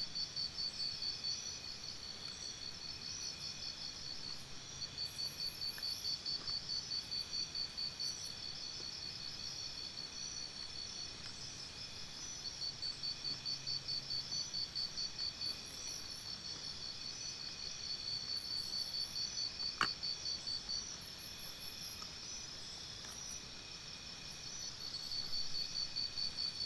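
Crickets chirping: a high-pitched trill in rapid even pulses that swells and fades in stretches of a few seconds. A single sharp click comes about twenty seconds in.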